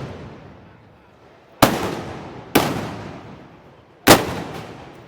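Three loud black-powder blank shots, about a second and then a second and a half apart, each trailing off in a long echo. These fit the arquebus and blunderbuss firing (arcabucería) of a Moros y Cristianos festival.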